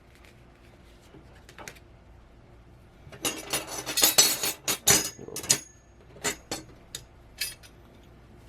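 Small metal mounting hardware (nuts and a ring washer) clinking and rattling as it is picked through and handled. A dense run of clinks comes a few seconds in, then a few separate clicks.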